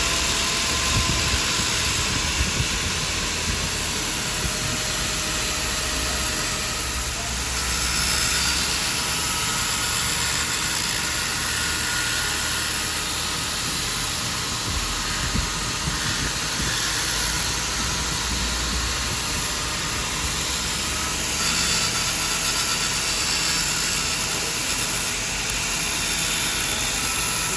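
A workshop machine running steadily: a constant hiss over a low hum, with a faint steady whine.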